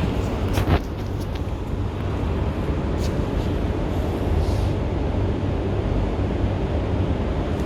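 Steady low mechanical hum and rumble, with a couple of faint clicks about a second and three seconds in.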